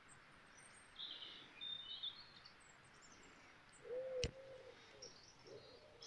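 Faint birdsong: short high chirps and trills about a second in and again around two seconds, then a low arching call twice a little after four seconds, with a single sharp click between them.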